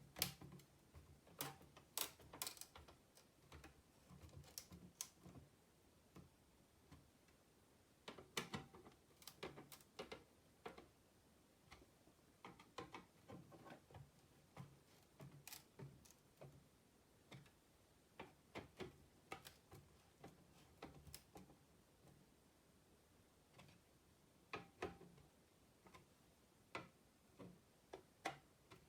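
Faint, irregular clicks and light taps from small hard objects, coming in clusters with short pauses between them.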